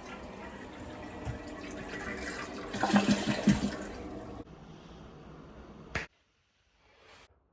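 Toilet flushing: water rushes and gurgles, loudest about three seconds in, then cuts off suddenly, followed by a short click and near silence.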